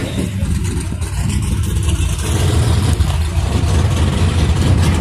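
Drag-racing motorcycle engine running hard at high revs, loud and steady throughout.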